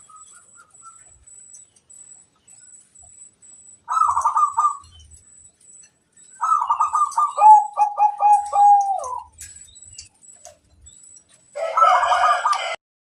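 Zebra doves (perkutut) cooing in three bouts: a short phrase about four seconds in, then a longer song of quick staccato coos dropping to a lower run of notes, and a louder call near the end.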